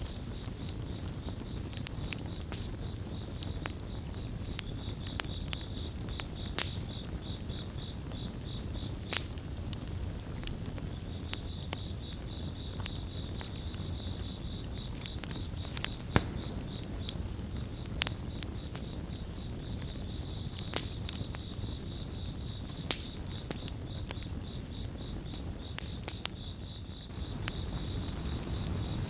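Campfire crackling and popping, with sharp snaps at irregular moments over a low steady rush of the flames, and crickets chirping in a steady pulsing trill that drops out briefly near the first third.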